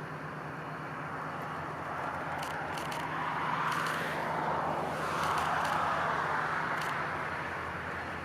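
Vehicles going by: a rushing running noise swells twice, about halfway through and again shortly after, over a steady low hum.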